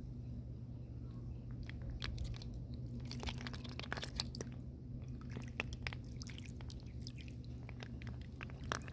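Irregular sharp clicks and crunches of shells being handled, thickest in the middle, over a steady low hum.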